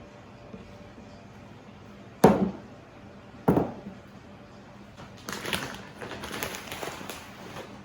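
Two separate knocks a little over a second apart, then a couple of seconds of light clattering and rustling, as household items are handled and set down in a kitchen.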